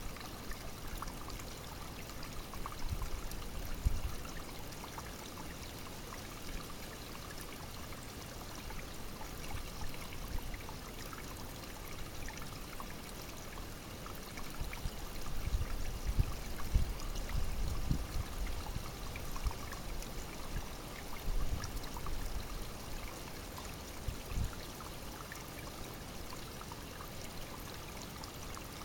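Small spring-fed brook babbling steadily, with a few low rumbles rising over it, the loudest about four seconds in and around the middle.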